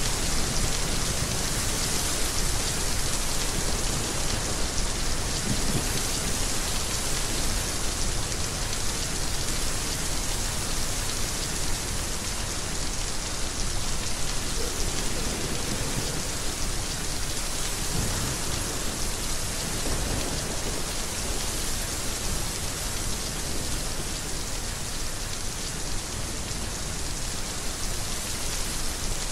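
Heavy rain falling steadily as an even hiss, with soft, low rolls of thunder rumbling under it about halfway through.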